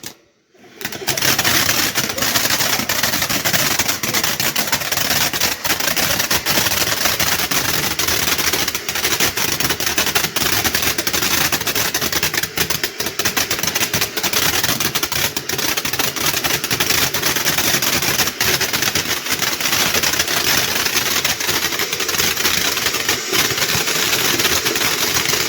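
Ground firework fountain giving off a dense, continuous crackle with a hiss of burning fountain spray, steady in loudness throughout.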